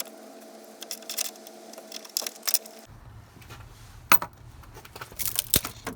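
Irregular metallic clicks and clinks of a socket ratchet and loose bolts as a crossbar's bolts are taken out under a car's hood. A steady hum sounds under the first three seconds and cuts off suddenly.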